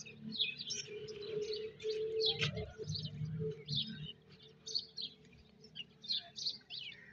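Many small birds chirping continuously in quick short notes, with low indistinct sound and a faint hum underneath during the first few seconds.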